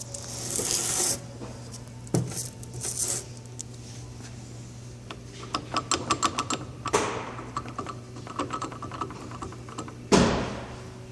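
Metal gear parts of a winch's planetary gearbox being handled: scraping, then scattered clicks and knocks, a quick run of small metallic clicks about six seconds in, and a loud knock just after ten seconds, over a steady low hum.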